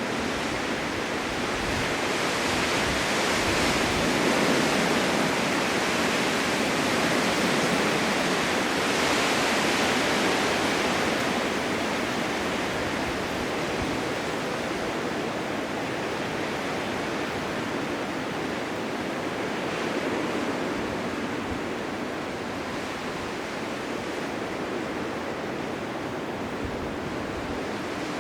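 Blizzard wind blowing as a dense, even rushing noise with no whistle or howl, swelling in a long gust during the first ten seconds or so and then easing back to a steady level.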